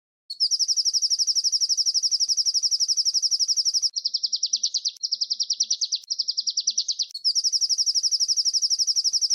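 Small songbird singing a very fast, high-pitched rolling trill, an even run of rapid notes. About four seconds in it breaks into three shorter, lower, wavering phrases, then the fast trill resumes.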